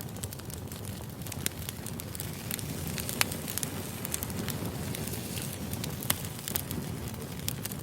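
Burning firewood: a wood fire crackling with scattered sharp pops over a low steady rumble of the flames.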